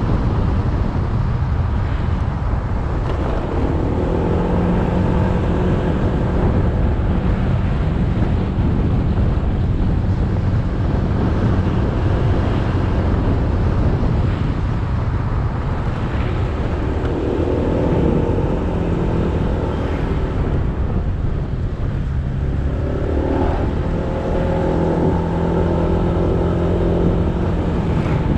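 Motorcycle engine running while riding, over steady road noise, its pitch rising and falling a few times with the throttle and speed.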